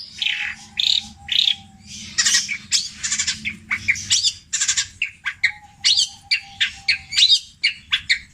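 Long-tailed shrike (cendet) singing a fast run of short, sharp, varied calls and harsh squawks, many sweeping in pitch, in the mimicking style it is kept for. Two faint, long, steady whistles sound under the calls.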